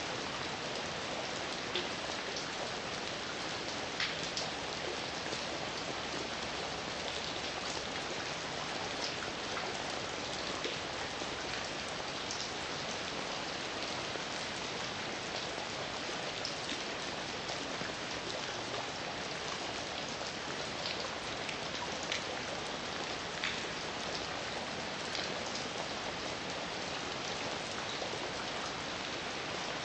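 Heavy rain falling steadily, an even hiss with scattered sharper drop ticks on a hard surface.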